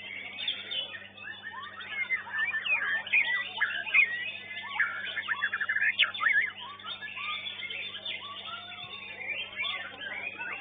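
Several caged songbirds singing at once: dense, overlapping chirps, slurred whistles and rapid trills, over a steady low electrical hum.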